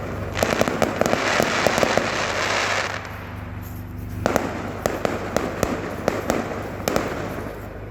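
Fireworks going off: a dense crackling run of rapid small bangs for about two and a half seconds, then single sharp cracks every half second or so.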